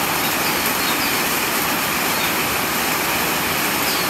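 Heavy rain falling in a steady downpour: an even, unbroken rushing hiss.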